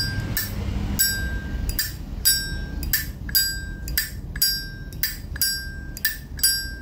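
Zippo lighter (a 1990 striped model) being flicked open and snapped shut over and over, about two clicks a second, each with a short metallic ring: the lid's hinge and cam 'ping' that collectors listen for.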